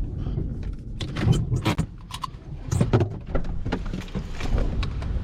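A quick run of knocks and clunks from objects being handled, over a steady low rumble.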